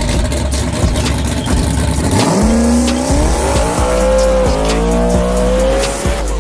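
A racing truck's engine accelerating hard down the track, its pitch climbing, dropping once at a gear shift about four and a half seconds in, then climbing again. Before that there are about two seconds of loud rushing noise. Hip-hop music with a steady beat plays underneath.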